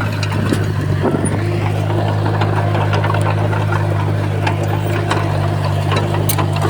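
Small crawler bulldozer's diesel engine running steadily under load, with scattered light clanks and clicks over it.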